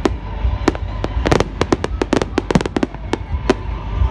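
Fireworks going off: about a dozen sharp, irregularly spaced bangs and cracks over a continuous low rumble.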